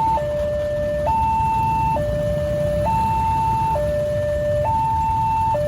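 Railway level-crossing warning siren sounding a two-tone alarm: a high and a low electronic tone alternate, each held just under a second, signalling that the crossing is closed to road traffic.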